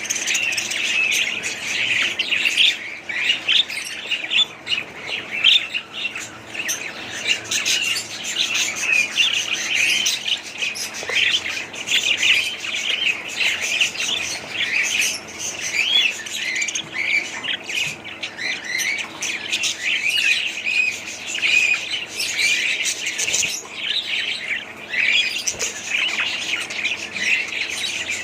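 Budgerigars chattering, with many short chirps and warbles overlapping and never pausing.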